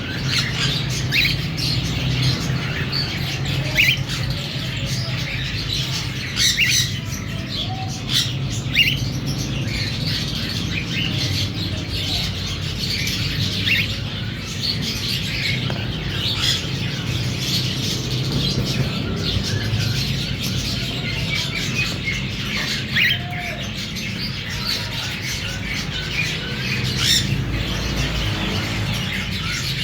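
Cockatiels chirping and calling, a steady stream of short high chirps over a constant low hum.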